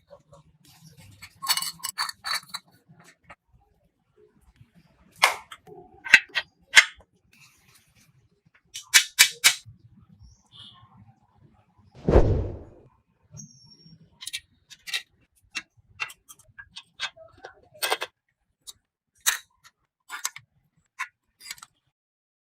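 Workshop clatter: scattered sharp clicks and metallic knocks from tools and parts being handled, some in quick runs of three or four, with one heavier thud about halfway through.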